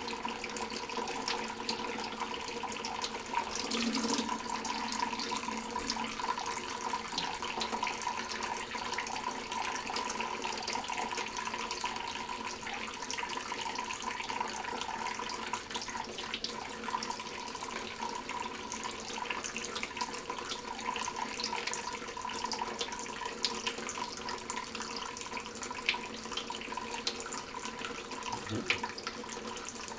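Water running steadily from a tap into a sink, with light irregular splashes as a lovebird bathes in the stream.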